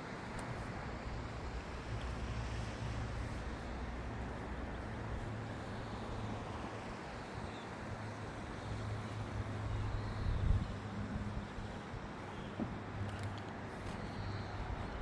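Outdoor background noise with a steady low engine hum and a general haze like distant traffic, and one louder knock about ten seconds in.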